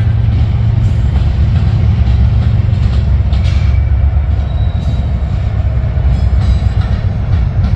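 Train rolling past, its railcars giving a steady heavy rumble of wheels on rail, with faint clicks and brief thin squeals above it.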